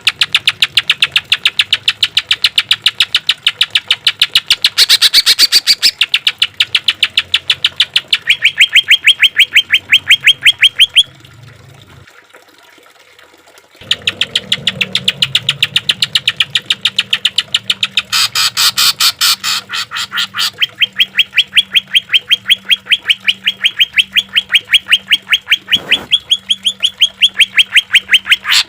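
Green leafbird (cucak ijo) song: long runs of rapid, evenly repeated sharp notes, the rattling 'tembakan' series. The song breaks off for about two seconds near the middle, then resumes.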